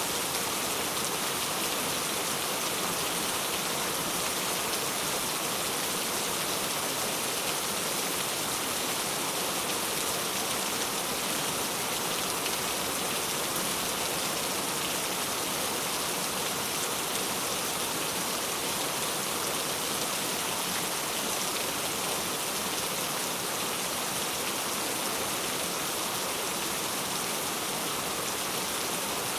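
Heavy rain falling steadily on hard surfaces, an even hiss without any change.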